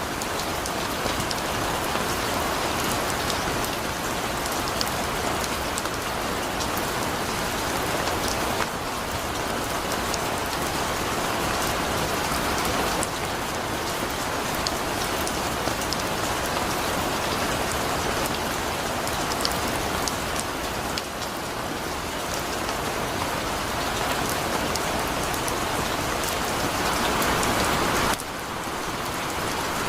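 Heavy rain falling steadily, a dense hiss of rain on a surface with many individual drops ticking through it. The level steps down suddenly a few times.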